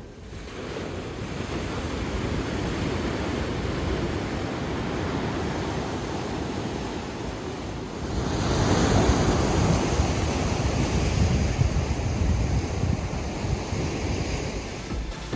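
Steady rushing noise like wind or surf, growing louder about eight seconds in.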